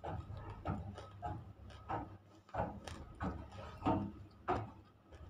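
Close-up chewing of half-roasted, unshaped nakomat (edible baked clay): a run of sharp, dry crunches about one every half second to second as the chunks break between the teeth.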